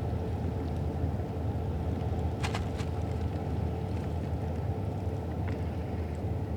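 Steady low engine rumble with a faint constant hum. Two sharp clicks come about two and a half seconds in, and another near the end.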